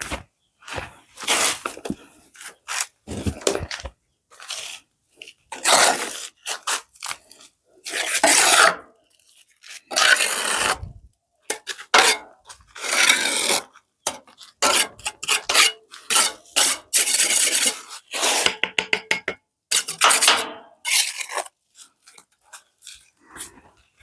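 Repeated scraping and rubbing strokes of a hand tool on a hard surface, each lasting about a second, with short pauses between them.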